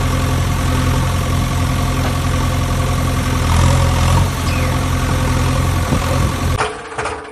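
Steady, even drone of a running motor, ending abruptly about six and a half seconds in, where a weaker, pulsing sound takes over.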